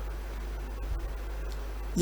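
Steady background hiss with a low hum; no speech.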